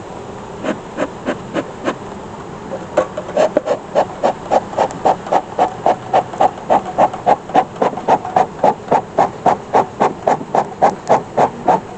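Beekeeper's smoker bellows being pumped to puff smoke over the hive. There are a few slow puffs at first, then a steady run of about three puffs a second until near the end.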